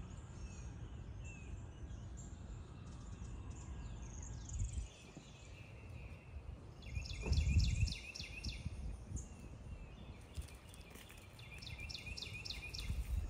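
A songbird sings two phrases of quickly repeated notes, about five a second, one about seven seconds in and another about eleven seconds in, with fainter chirps before them. Under it runs a steady low rumble that swells briefly near the first phrase.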